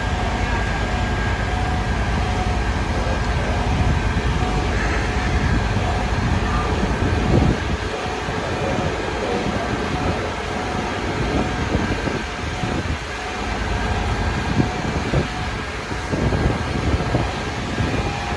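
Steady low rumble of engines and street traffic with a faint steady hum. From about seven seconds in, gusts of high wind buffet the microphone in irregular thumps.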